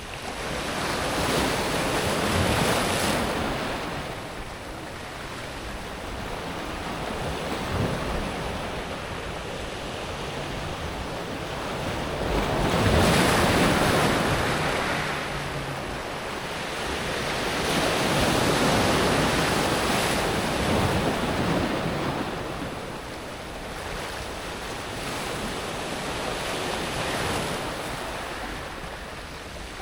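Gentle sea waves breaking and washing back over a pebble beach, a steady hiss of surf that swells and fades every few seconds; the strongest wave comes about halfway through.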